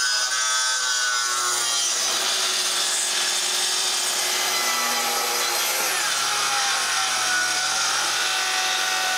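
Circular saw running through a long cut in a wooden plank shutter, cutting it to size. The motor whine sags under load in the first couple of seconds and wavers through the cut.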